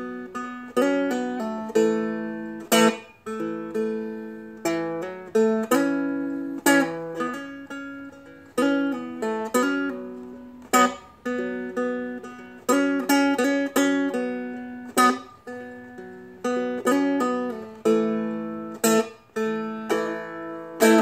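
Seagull Merlin, a four-string fretted dulcimer-style instrument, strummed in a simple pattern that carries a melody. Sharp strokes come about once a second, with changing held notes ringing between them.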